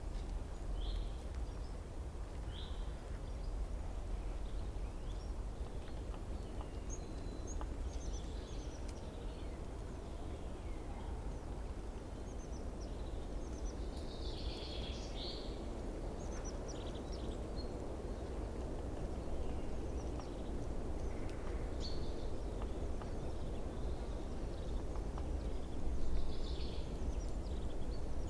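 Outdoor natural ambience: a steady low noise throughout, with short high chirps from small birds scattered over it, a few single chirps early and denser bursts around the middle and near the end.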